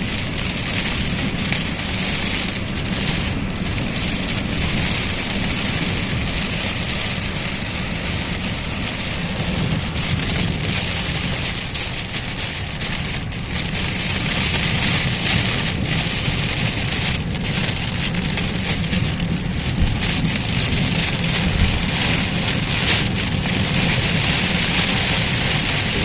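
Heavy rain pouring steadily, with a low rumble of strong wind underneath.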